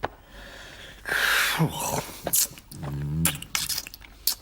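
Cartoon character's wordless vocal sounds: a breathy, sneeze-like burst with falling pitch about a second in, then a low grunt, with a few sharp clicks in between.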